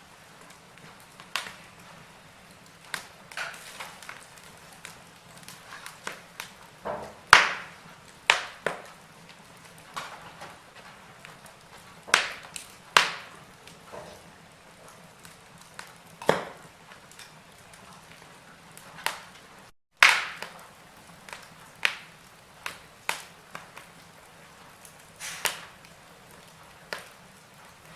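Log fire in a fireplace crackling: irregular sharp pops and snaps over a faint steady hiss. About two-thirds of the way through, the sound drops out for a split second and then comes back with a loud pop.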